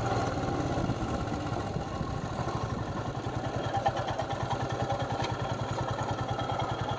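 Motorcycle engine running steadily, with an even, rapid pulsing of its firing strokes.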